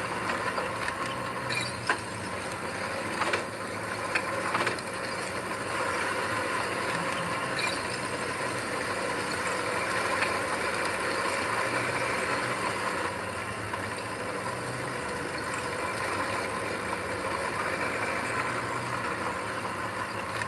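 Heavy earthmoving machine's diesel engine running steadily, with a few sharp metallic clanks in the first few seconds.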